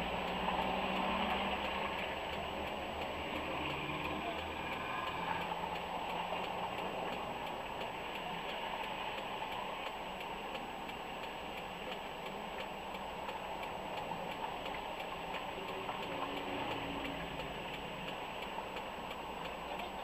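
Inside a stationary car, the engine idles with a steady low hum and a turn-indicator relay ticks evenly.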